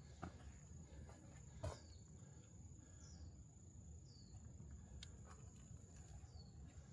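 Faint rural ambience. An insect drones steadily on one high note while a bird repeats a short, downward-sliding call every second or so. A few soft footsteps sound, the loudest about a second and a half in.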